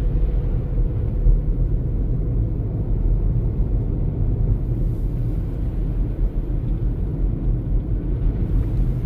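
Steady low rumble of a car driving on the highway, engine and tyre noise heard from inside the cabin.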